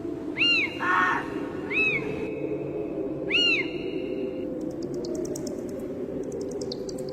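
Spooky sound-effect soundscape of bird calls over a steady low drone: three whistled calls that each rise and fall, a short harsh call about a second in, and rapid high chirping in the last couple of seconds.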